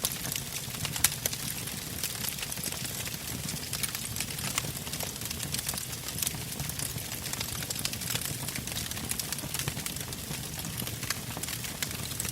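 Log campfire burning and crackling: many sharp pops and snaps over a steady low rush of flame, with one louder pop about a second in.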